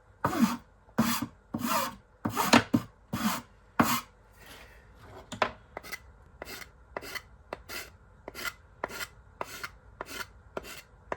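Hand file rasping back and forth across the edge of a brass bracket as it is trimmed and rounded over. About six heavy strokes in the first four seconds give way to lighter, shorter strokes at about two a second.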